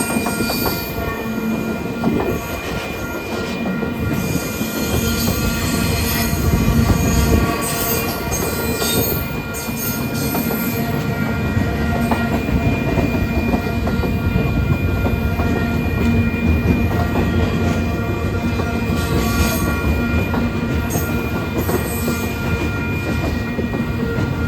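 Freight train rolling past, a steady heavy rumble with wheels squealing in steady high tones throughout.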